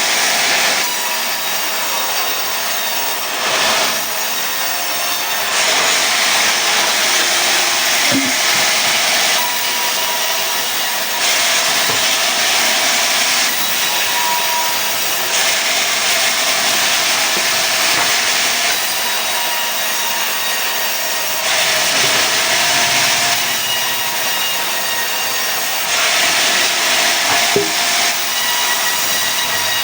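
Sawmill saw cutting pine into boards: a continuous loud hiss of blade through wood, swelling and easing every few seconds.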